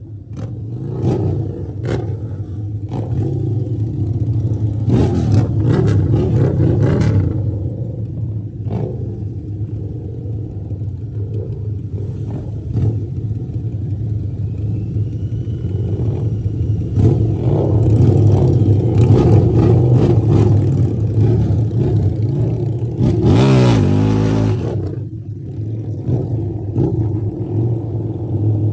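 Harley-Davidson V-twin motorcycle engine running on the move, rising and falling with the throttle, with a sharp rev about 23 seconds in.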